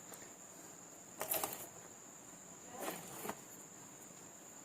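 Two brief rustling clatters of test gear being handled, over a faint steady high-pitched whine.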